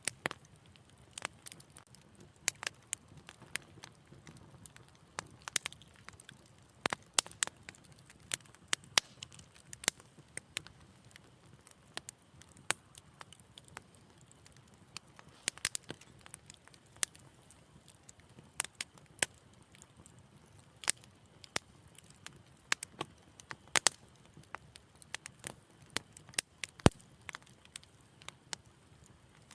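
Wood fire crackling in a fireplace: irregular sharp pops and snaps over a soft low rumble of flame, with one louder pop near the end.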